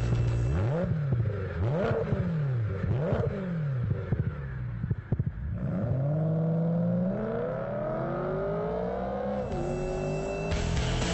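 BMW E92 M3's 4.0-litre V8 through an Eisenmann Inconel exhaust, blipped three times with crackles on the overrun, then pulling hard with the pitch climbing steadily until a sharp drop at an upshift.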